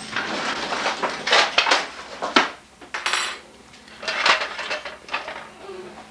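Clattering and clinking of hard objects in irregular bouts, like dishes and cutlery being handled, with a sharp clack about two and a half seconds in and a brief high ringing clink just after.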